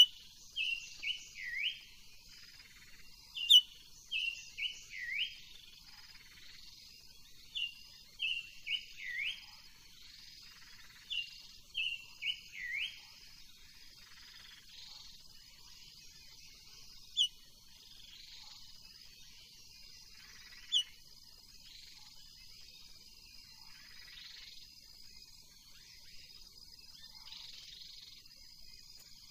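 Silver-eared mesia (chim ngũ sắc) singing: short phrases of three or four quick whistled notes sliding downward, given four times in the first dozen seconds, then only a few scattered single chirps. A steady high-pitched hum runs underneath.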